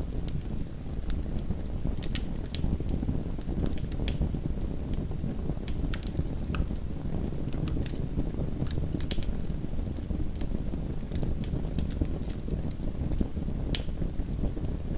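Campfire crackling, with irregular sharp pops and snaps every second or so over a steady low rumble.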